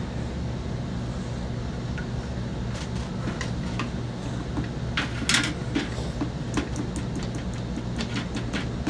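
Scattered clicks and knocks of household items being handled, with a louder scrape or rustle about five seconds in, over a steady low hum.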